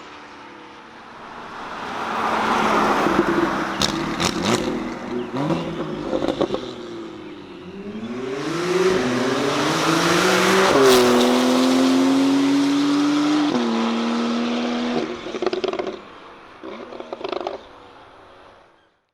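Porsche 991.2 Carrera's 3.0-litre twin-turbo flat-six through cat-bypass competition link pipes and the factory sport exhaust muffler, building up and accelerating with its pitch rising in several steps, holding a steady note, then dropping and backing off. A few sharp crackles come around four seconds in and again near the end before the sound fades out.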